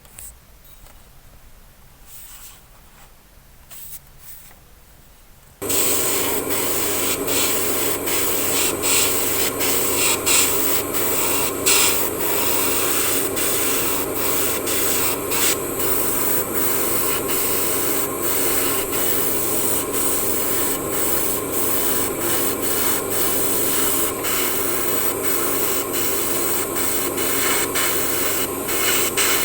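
Small power tool switched on about five seconds in, then running steadily while sanding against the model car's diecast metal body, with frequent short scraping contacts over its steady hum. Before it starts, only faint light handling ticks.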